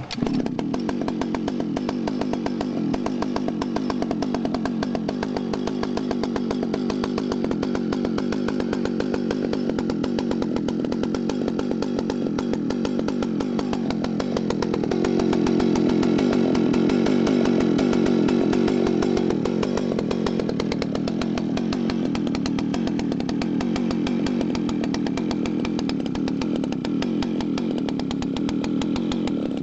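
1968 Dolmar CC Super two-stroke chainsaw engine running steadily and smoothly. About halfway through it speeds up and gets a little louder for several seconds, then eases back to its earlier speed.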